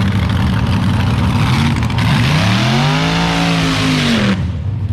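A drag-racing car's engine revs up and back down over about two seconds, ending abruptly, over a steady low engine idle.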